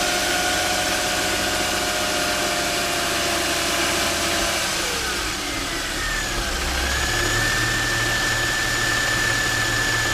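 Mercedes-Benz M272 3.5-litre V6 engine running steadily. Its whine drops in pitch about halfway through, then climbs and holds at a higher pitch.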